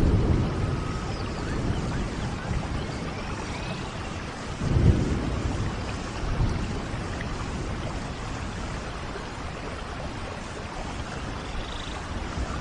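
Steady rain falling in a rainforest, with low rolls of thunder, the loudest about five seconds in.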